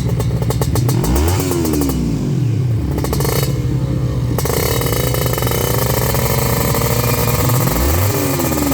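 Drag-racing motorcycle engine running loudly, revved twice: its pitch climbs and drops about a second in and again near the end.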